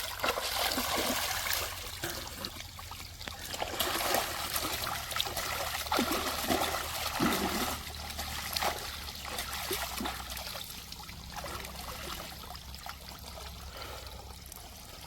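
Water trickling and splashing, with many short knocks and splashes scattered through it, thickest in the first half.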